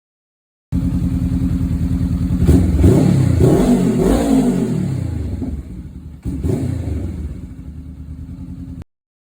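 2022 Honda CBR500R parallel-twin engine through a Leo Vince slip-on muffler. It idles, then is revved up and down a few times before settling back toward idle, and cuts off suddenly near the end.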